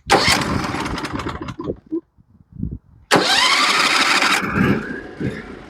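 Norwood HD36v2 portable sawmill's gasoline engine being cranked and started twice: a first attempt that fades out, then about three seconds in a second start where it catches, rises in pitch and settles into steady running.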